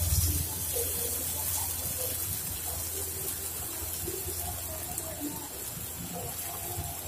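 Marinated chicken seekh kebabs sizzling on skewers in a hot buttered nonstick pan: a steady frying hiss with small scattered crackles, over a low steady hum.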